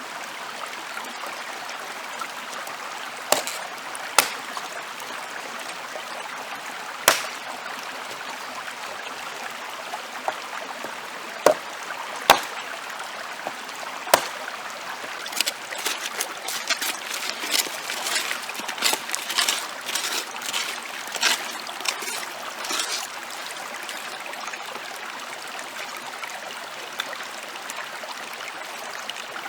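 Steady flow of running water, like a stream, with scattered sharp knocks and clicks on top; the knocks come thick and fast for several seconds past the middle.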